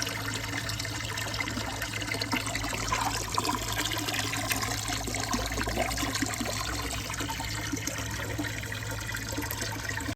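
Water running and trickling through a water marble run, with many small splashes and clicks, over a steady low hum.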